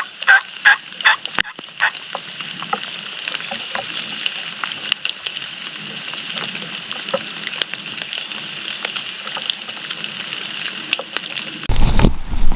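Wild turkey gobble, a fast run of loud rattling notes, ending in the first second or so, then a steady high wet-woods hiss. Near the end, rain drumming close on a surface cuts in suddenly and much louder.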